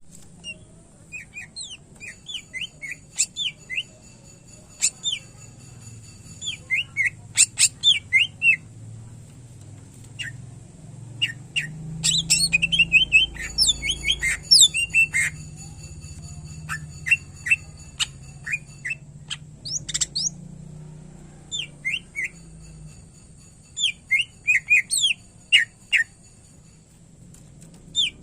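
Greater green leafbird (cucak ijo) singing hard, in bursts of quick, sharp chirps and whistled notes with short breaks between them, its song packed with imitated calls of other birds.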